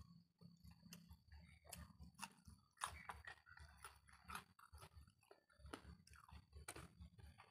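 Faint close-up chewing of a mouthful of food, with repeated soft crunches and clicks several times a second.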